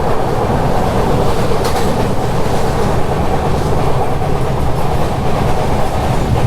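Mandovi Express passenger train running along the line after pulling out of a station: a steady, loud rumble of wheels and carriage.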